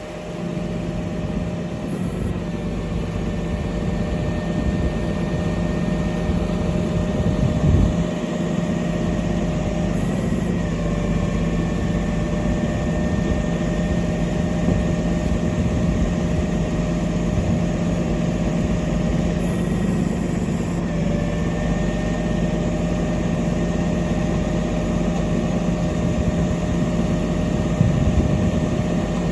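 Heavy diesel engine of a refuse truck running steadily at a low, even hum. Its pitch shifts slightly a few times.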